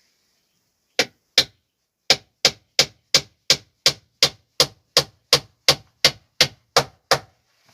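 Hammer striking into wood, as in driving a nail. There are two blows, then a steady run of about fifteen sharp blows at roughly three a second.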